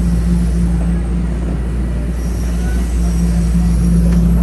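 Toronto subway train on Line 1 running between stations, heard from inside the car: a steady low rumble with a hum that fades and returns.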